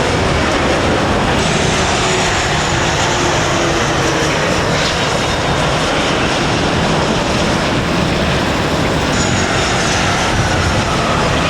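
Jet airliner's engines, loud and steady, as the plane passes low on its landing approach, with a faint whine slowly falling in pitch near the end.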